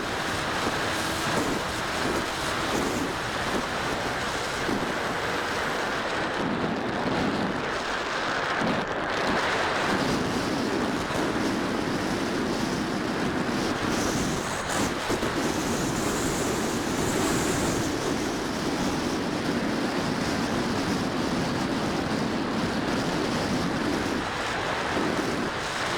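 Strong wind buffeting the microphone, a steady rushing roar.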